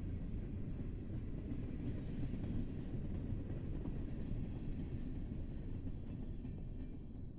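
Train rolling along the tracks: a steady low rumble that eases slightly near the end.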